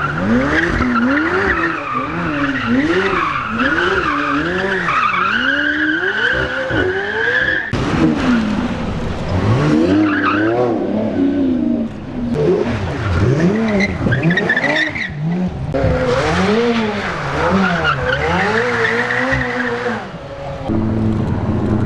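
High-performance car engines revving up and falling back about once a second while the tyres squeal and skid through drifting donuts, heard in several short clips cut together. A high tyre squeal is strongest in the first third.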